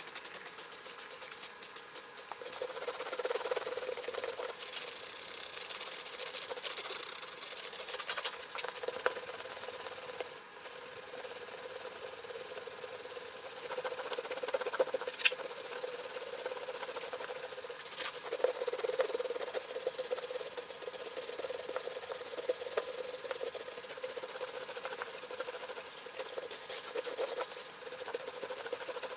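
Continuous abrasive scrubbing of a wheel or tire, a brush or pad rubbing hard against the surface during cleaning. It is choppy for the first couple of seconds, then steady, with a short break about ten seconds in.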